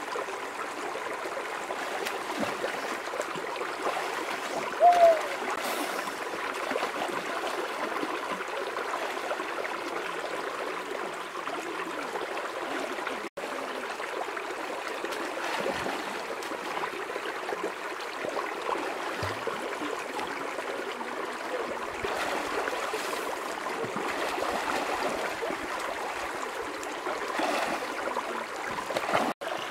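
River water running over stones in a steady rushing flow, with a brief louder squeak about five seconds in.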